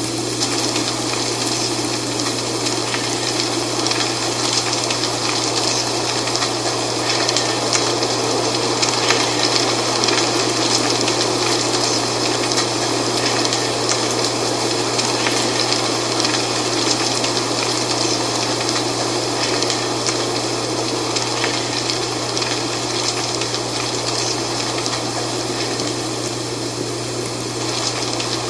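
Wind blowing with dry fall leaves rustling: a steady rush with fine crackling throughout and a constant low hum underneath.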